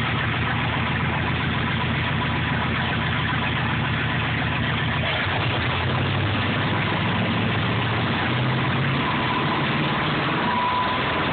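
1961 Fargo's engine idling steadily.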